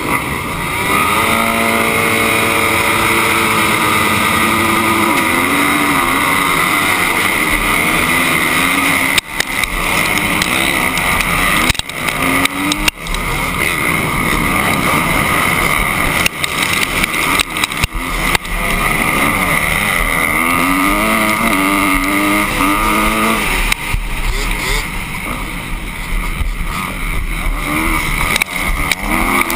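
Motocross bike engines running and revving, rising and falling in pitch several times, over a loud steady noise.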